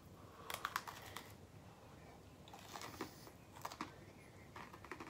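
Faint crunching and chewing of an Oreo The Most Stuf sandwich cookie: a cluster of crisp crunches starting about half a second in, then a few scattered crunches.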